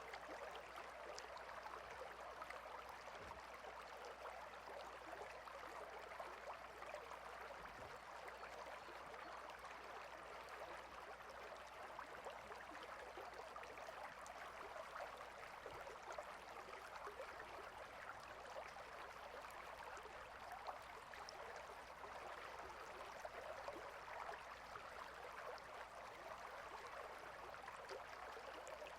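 A small water stream flowing and babbling steadily, faint.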